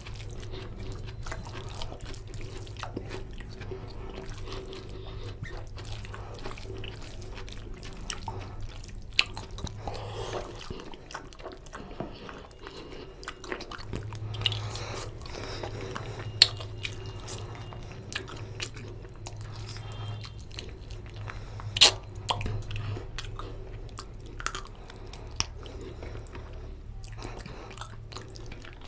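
Close-miked chewing, biting and wet mouth smacks of a person eating oily mutton curry and rice by hand, with sharp clicks and smacks scattered throughout over a steady low hum.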